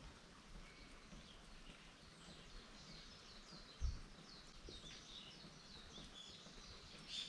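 Faint bird chirps over quiet outdoor ambience, with a quick run of short, high, falling chirps in the second half. A single soft low thump about four seconds in.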